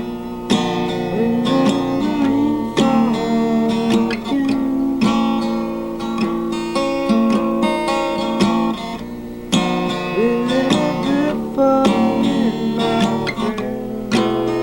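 Acoustic guitar strumming chords in a steady rhythm, as an instrumental passage of a song.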